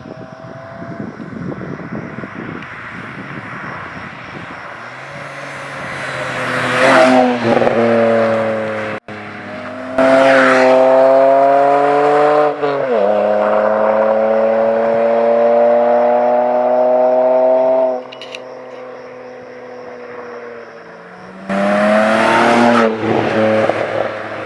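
BMW E92 325i's 3.0-litre N53 straight-six, its exhaust free of the secondary cat and resonator and fitted with a custom muffler, accelerating hard. The exhaust note climbs, breaks and drops in pitch at gear changes, then climbs again. The throttle is lifted and the engine settles, with a short loud burst of throttle near the end.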